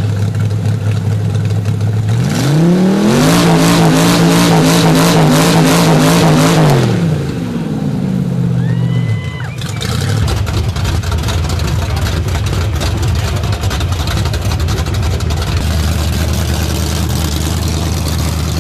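Engine of a 1931 Chevy truck running on open headers: idling, revved up about two seconds in and held high for some four seconds, then dropping back to a steady idle.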